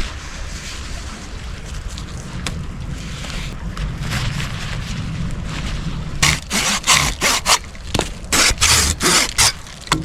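Camping gear being handled while pitching camp: from about six seconds in, a quick series of short rustling scrapes. Under it runs a steady low rumble of wind on the microphone.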